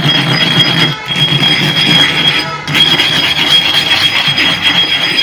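A sharpening stone rubbed back and forth on sand spread over a flat iron bar: a loud, gritty grinding scrape as the stone's face is lapped flat. It breaks off briefly about a second in and again about two and a half seconds in. A steady high-pitched tone runs behind it.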